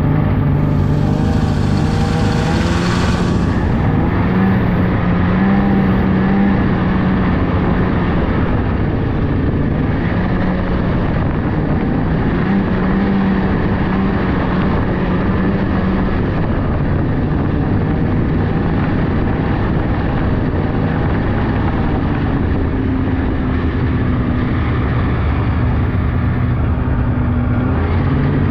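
Polaris 600cc snowmobile engine running under way, its pitch rising and falling a little with the throttle, with a rushing hiss over the first three seconds or so.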